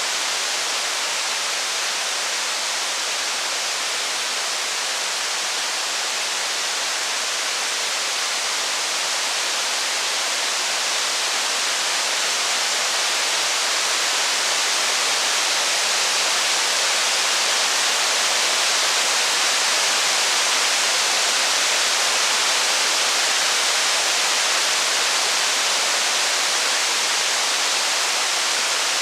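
Steady rain: an even, unbroken hiss, with no thunder or fire crackles standing out.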